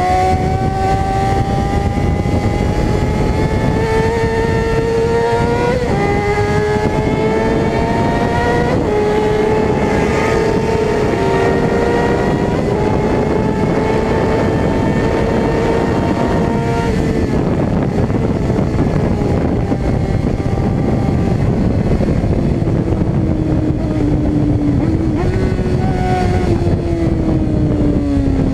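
Suzuki GSX-R600 inline-four sport-bike engine at high revs, its pitch climbing steadily with an upshift about six seconds in, over a steady rushing noise. Past halfway the engine note sinks under the rush for several seconds, then comes back and falls away near the end as the bike slows.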